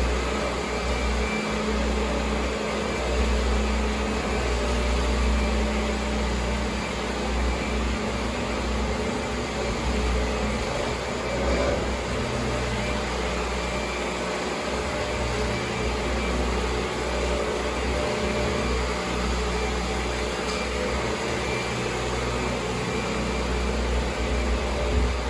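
Kirby G4 upright vacuum cleaner running steadily, its motor and fan giving a constant drone with a low hum.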